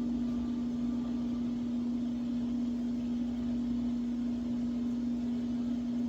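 A steady machine hum at one even pitch over a background hiss, unchanging throughout.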